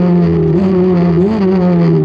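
Formula 4 race car engine running at high revs with a steady pitch that slowly sags, with two brief small rises in pitch.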